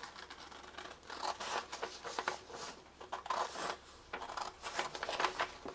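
A sheet of paper being cut apart along its fold in a series of short, irregular rasping strokes.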